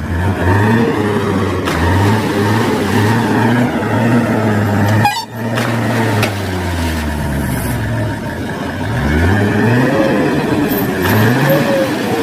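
A vehicle engine revving over and over, its pitch rising and falling in repeated swells over a steady low hum, with a brief drop-out about five seconds in.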